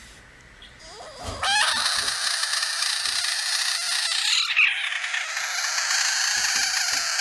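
Loud, continuous animal calling that starts about a second and a half in, with a brief dip about four and a half seconds in.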